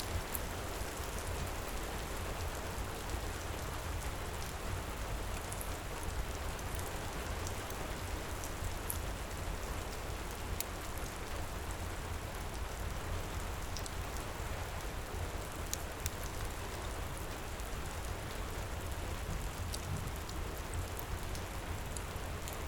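Heavy rain pouring steadily with a low rumble underneath, and scattered faint crackles from a fireplace.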